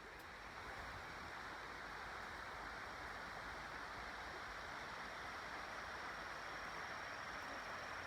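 Steady rush of running water from a mountain stream or waterfall, with a thin, steady high tone above it.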